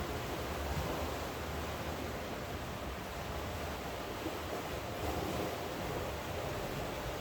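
Steady rain falling, an even continuous hiss, blended with the wash of sea surf.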